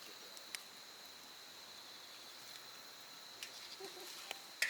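Night insects trilling steadily at a high pitch, with a few sharp crackles from the wood campfire, the loudest near the end.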